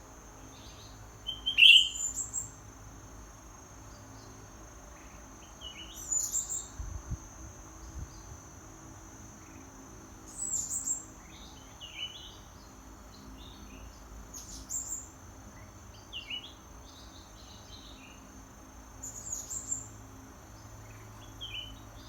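Short bird calls of a few quick high notes repeating about every four to five seconds, over a steady high-pitched insect drone.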